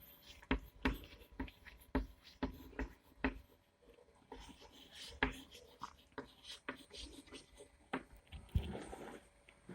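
Someone writing by hand: a series of short, irregular taps and scratches.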